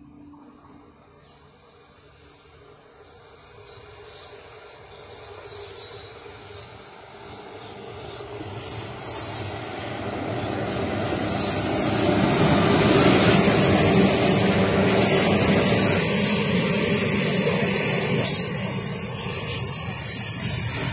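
A train approaching and running past, its wheel and rail noise growing steadily louder for about twelve seconds and then staying loud, with a high hiss.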